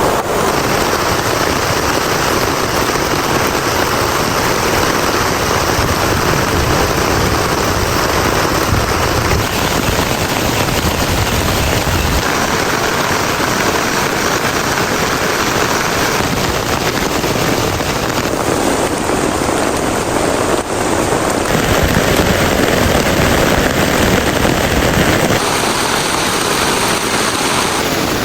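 Heavy rain falling: a loud, dense, steady hiss of drops whose tone shifts abruptly every few seconds.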